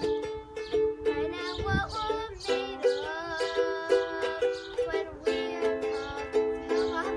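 Strummed acoustic string instrument playing chords in a steady rhythm, the chord changing a few times.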